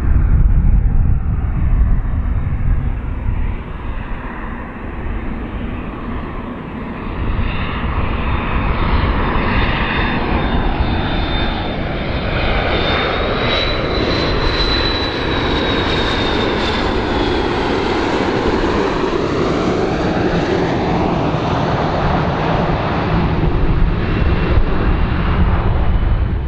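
Airplane flying past: a steady engine rumble with a high whine that rises and falls in pitch as it passes, around the middle.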